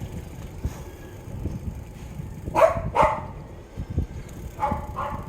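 A dog barking: two sharp barks about half a second apart near the middle, then two fainter barks near the end, over a steady low rumble.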